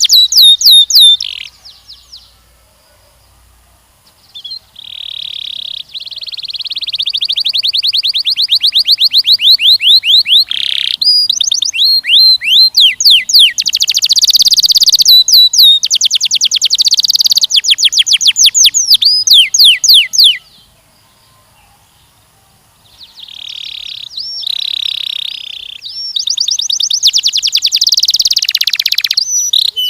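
Canary singing long rolling trills of rapidly repeated high sweeping notes, phrase after phrase, with two short pauses: one soon after the start and one about two-thirds of the way through.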